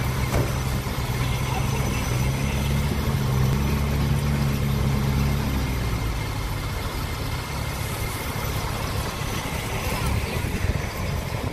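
A vehicle engine idling steadily, fading out about six seconds in, over a steady rushing noise.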